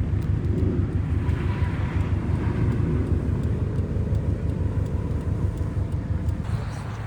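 Low, steady rumble of a car running.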